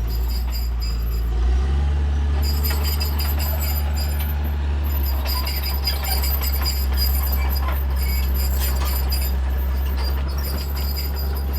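Heavy diesel earthmoving machinery running under load: a steady low engine drone that shifts pitch about a second and a half in, with intermittent high squeals and rattles over it.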